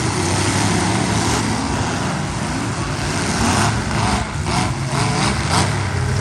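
Demolition derby cars' engines running and revving loudly together, with a few short sharp bursts in the second half.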